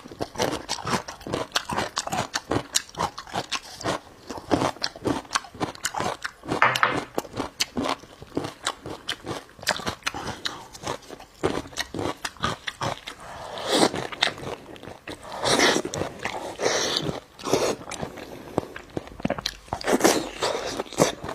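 A person eating close to the microphone: steady irregular chewing and biting, with a few louder crunches.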